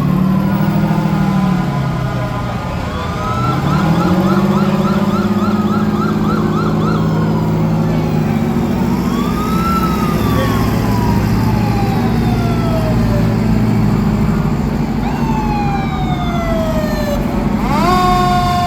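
Fire truck sirens wailing in a parade, their pitch slowly rising and falling, with a fast warbling yelp from about four to seven seconds in and a sharp wind-up near the end. A steady low drone of truck engines runs underneath.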